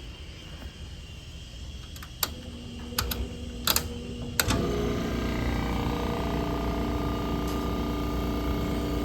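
Several sharp clicks, then about four and a half seconds in a refrigeration compressor motor starts and runs on with a steady hum.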